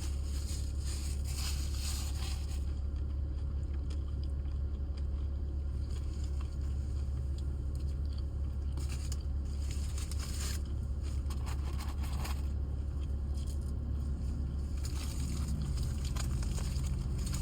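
Someone chewing and crunching food, with scattered rustles and scrapes, over a steady low hum inside a car.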